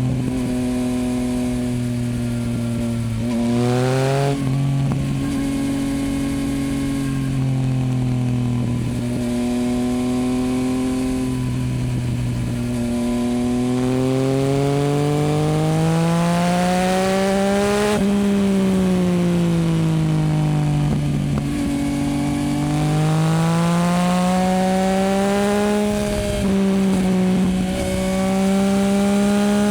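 2024 Yamaha MT-09's inline three-cylinder engine through a Dominator HP8 aftermarket exhaust, ridden and revving through the gears. Its pitch rises and drops sharply about four seconds in, climbs steadily to a peak past the middle, falls away as the throttle eases, then climbs again near the end.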